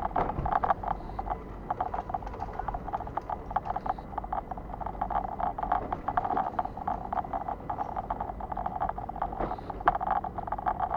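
Running noise of a moving vehicle heard from on board: a steady rumble under a dense, continuous crackle.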